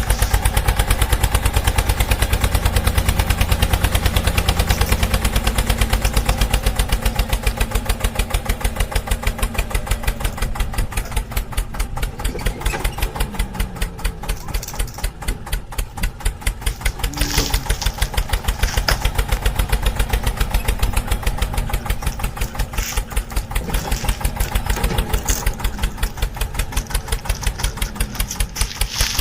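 Tractor engine running steadily at idle, an even low chugging at about four beats a second.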